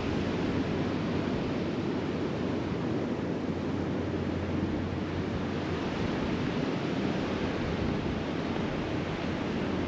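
Steady wash of surf breaking on a sandy beach, mixed with wind rumbling on the microphone; an even, unbroken noise.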